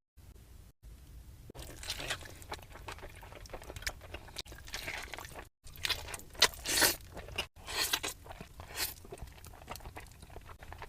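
Close-up crunching and chewing of crispy fried chicken, with irregular crackling bites.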